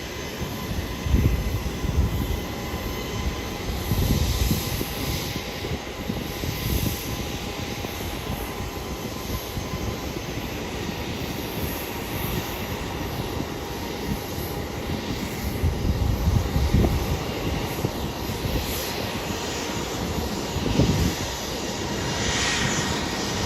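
Boeing 737 jet engines running at taxi power: a steady jet whine over a low rumble that swells now and then.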